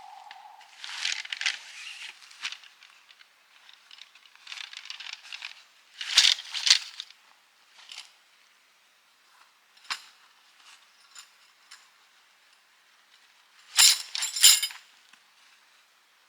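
Rustling and handling of camping gear, with scattered metallic clinks and jingles. The loudest jingling comes near the end.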